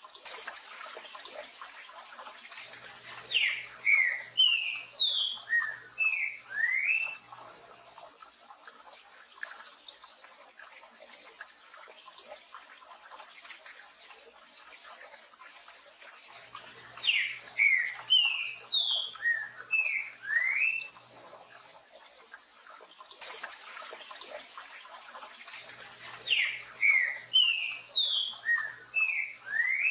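Green-winged saltator (trinca-ferro) singing its 'tio João pedro boi' song: three phrases of about eight short whistled notes each, a few seconds in, in the middle and near the end, over a steady hiss of rain.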